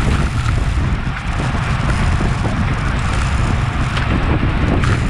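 Steady wind rushing and buffeting over an action camera's microphone on a road bike at race speed, loudest in the low rumble.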